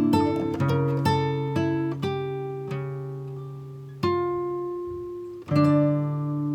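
Acoustic guitar music: plucked notes and chords, quicker at first, then a few slow strokes each left to ring and fade.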